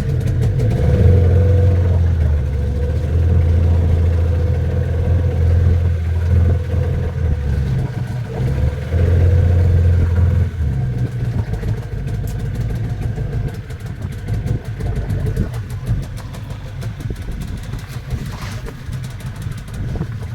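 Glass-bottom boat's engine running with a steady low drone; it drops a little and turns rougher about eleven seconds in.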